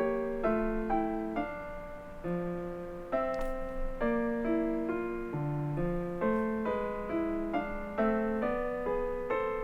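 Background piano music: gentle chords and melody notes struck about once or twice a second, each fading before the next.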